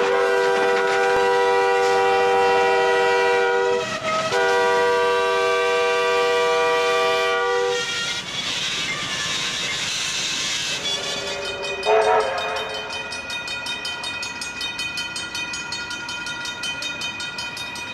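Train horn sounding a long blast, a brief break, then another long blast, followed by a rushing noise and one short blast near the end.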